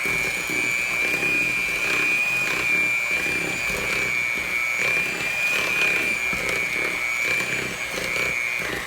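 Electric kitchen mixer running on low speed with a steady whine, its beaters blending graham cracker crumbs and flour into the creamed butter, sugar and egg. The pitch dips slightly near the end.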